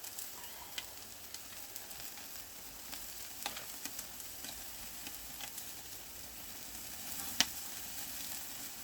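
Marinated pork belly sizzling on a grill over a wood fire: a steady hiss with scattered sharp crackles and one loud pop a little past seven seconds in.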